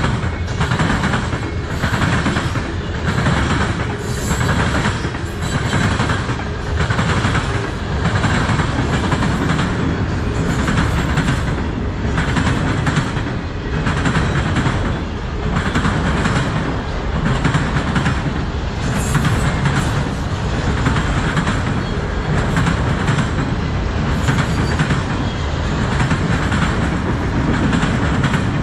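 Freight train cars rolling past at close range, covered hoppers and then autoracks: a steady rumble with the wheels clattering over the track in a regular beat, a little more than once a second.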